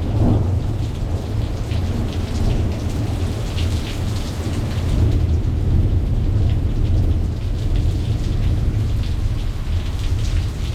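Thunderstorm: steady rain pattering with scattered close drops, over a low rolling rumble of thunder.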